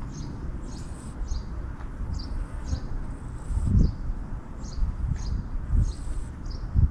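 Outdoor ambience: short high chirps repeating about twice a second over a gusty low rumble that swells loudly a few times.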